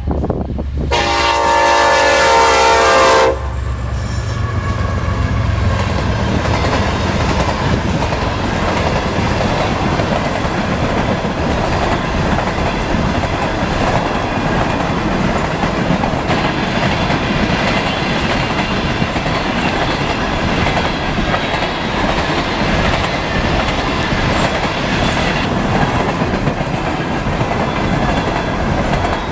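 Norfolk Southern freight locomotive's air horn sounding one long blast about a second in and cutting off a few seconds in. Then the diesel locomotives and a long string of coal hopper cars roll past with a steady rumble and wheel clatter.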